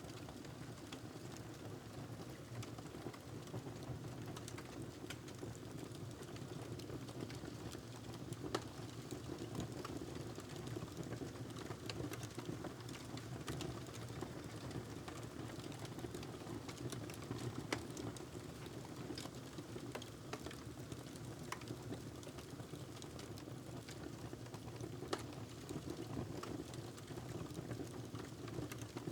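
Wood fire crackling in a fireplace: a steady low rush of flame with scattered sharp pops and snaps throughout, a few of them louder.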